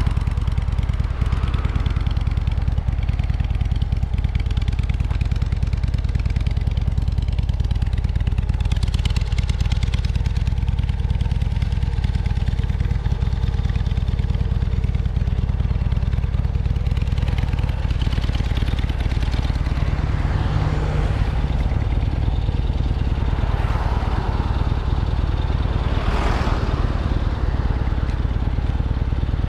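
Strong wind buffeting the microphone as a typhoon approaches: a steady low rumble with a few louder gusting rushes, one about a third of the way in and others near the end.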